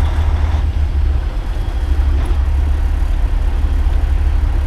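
Semi truck's diesel engine running under way, a steady low drone with road noise.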